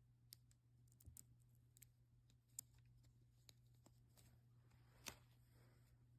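Near silence with a steady low hum and faint scattered clicks and light taps, the loudest about two and a half seconds and five seconds in.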